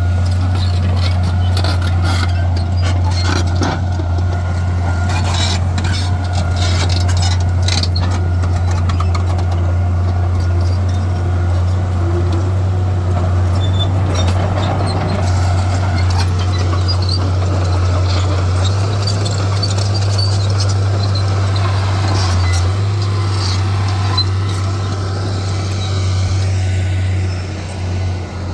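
Heavy diesel earthmoving machinery running steadily with a deep engine drone, with scattered clanks and knocks during roughly the first ten seconds.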